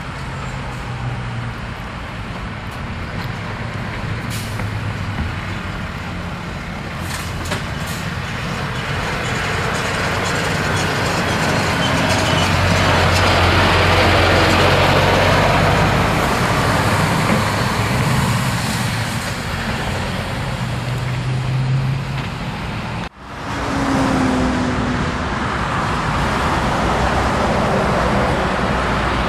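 Scania truck's diesel engine running under way, with road noise. The engine sound swells and then eases off through the middle, and it cuts out for an instant near the end before carrying on.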